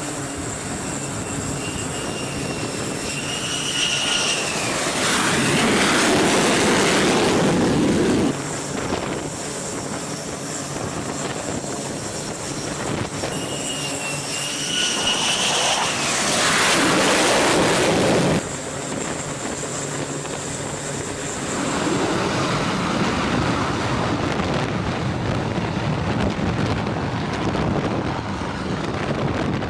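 Single-engine F-35B jet running at high power: a whine climbs, then a loud roar swells and cuts off abruptly about eight seconds in. The same whine-then-roar comes again and cuts off about eighteen seconds in, and a steady jet roar follows.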